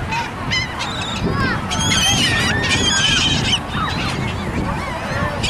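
A flock of gulls calling, many short cries overlapping one another, over a steady low rumble.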